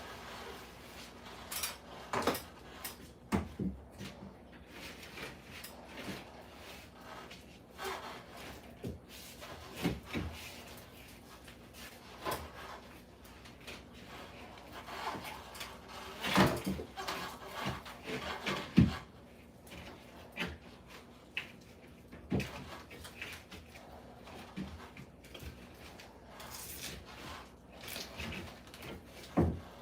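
Irregular knocks, clicks and scraping from manual work with hand tools and materials, with a cluster of louder knocks a little past halfway.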